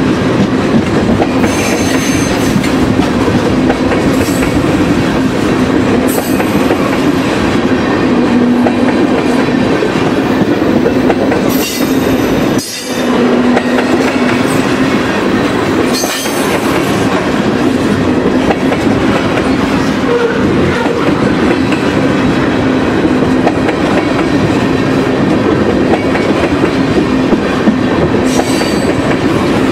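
Loaded freight cars (tank cars and boxcars) rolling past close by: a loud, steady rumble of steel wheels on rail with clickety-clack over the rail joints. Brief high-pitched wheel squeals come now and then.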